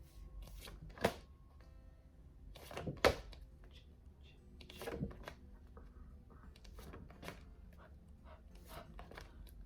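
A woman voicing isolated phonics letter sounds, short sharp bursts a second or two apart, the loudest about a second in and about three seconds in.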